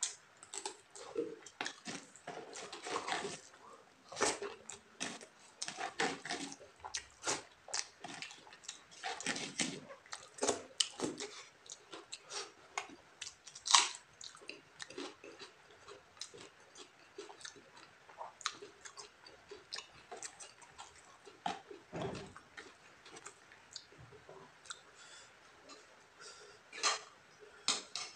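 Close-up chewing of rice and fried chicken eaten by hand, a string of short, irregular mouth clicks and smacks.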